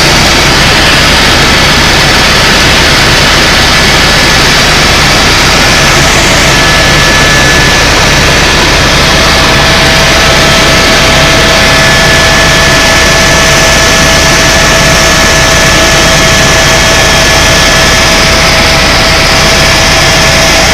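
Tour helicopter in flight, heard from inside the cabin: a loud, steady rush of turbine and rotor noise with a constant whine and a low rotor thrum.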